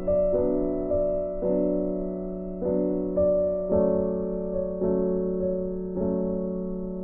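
Slow, gentle piano background music: soft chords struck about every half second to a second, each note left to ring and fade.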